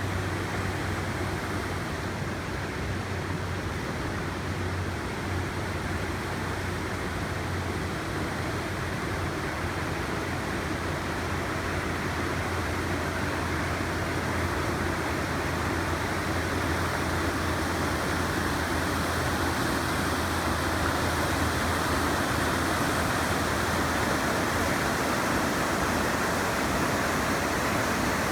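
Flowing water of a brook rushing steadily, growing slightly louder toward the end, with a low rumble underneath that fades out near the end.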